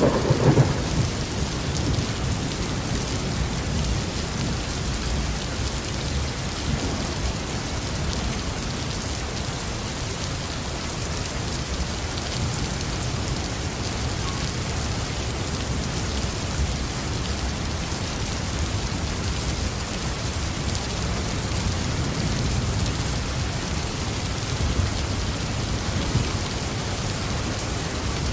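Heavy rain falling steadily on a roof, with deep thunder: a roll of thunder dies away in the first second, and softer low rumbles swell and fade later on.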